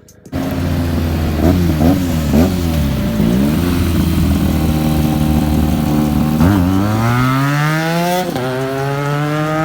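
Benelli TNT 300 parallel-twin engine through an Ixil full-system exhaust: a few quick throttle blips, then a steady stretch. The bike then accelerates, the revs climbing, dropping at an upshift a little over eight seconds in, and climbing again.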